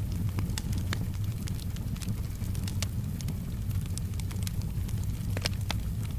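Wood fire crackling, with scattered sharp pops over a steady low rumble. One louder pop comes about five and a half seconds in.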